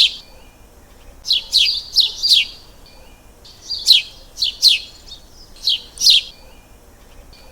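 A bird chirping: short, high, downward-sliding chirps, singly and in quick clusters of two or three, spaced by pauses of a second or so.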